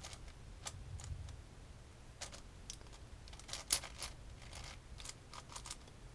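Plastic layers of a large puzzle cube clicking as they are turned by hand, in scattered irregular clicks, loudest in a cluster a little before four seconds in, over a faint steady low hum.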